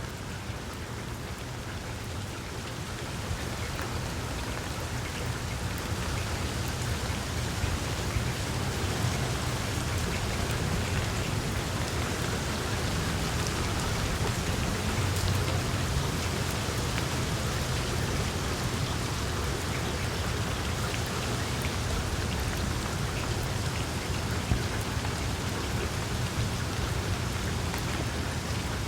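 Steady rain falling, with a low rumble underneath. It grows a little louder over the first several seconds, then holds steady.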